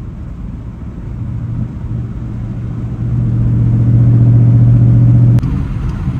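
Car engine running under load, a steady low drone that grows louder over several seconds, then breaks off abruptly with a click about five seconds in.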